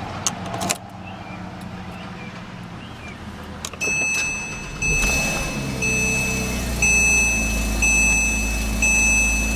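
Porsche Cayman R's 3.4-litre flat-six engine idling steadily, growing louder from about four seconds in. From about four seconds a high, steady electronic beep also sounds, breaking off and restarting about once a second.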